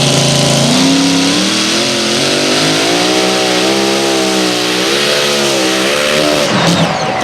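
Mini modified pulling tractor's engine running hard under load. Its pitch climbs about a second in, wavers up and down, then breaks off near the end.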